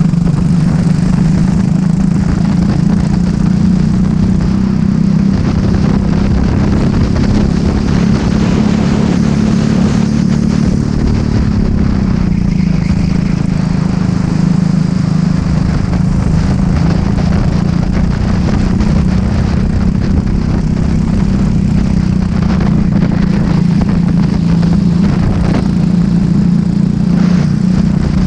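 Racing kart engine running hard through a lap, its pitch holding high, dipping briefly about twelve seconds in and again near the end, then coming back up.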